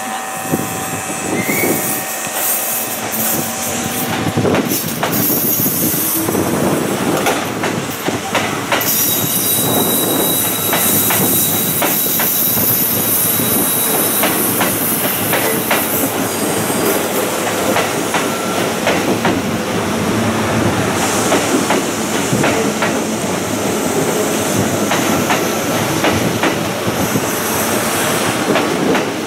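Eight-car Kintetsu 'Aozora II' electric train pulling out of the platform and running past close by: a steady rolling rumble with repeated wheel clicks over the rail joints. A thin, high wheel squeal lasts several seconds near the middle.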